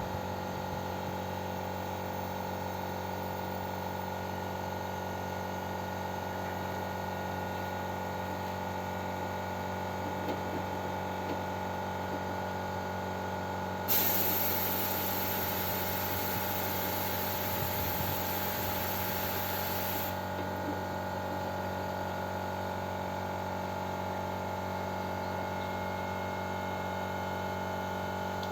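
A loud, steady spraying hiss starts suddenly about halfway through and lasts about six seconds, over a constant low electrical hum.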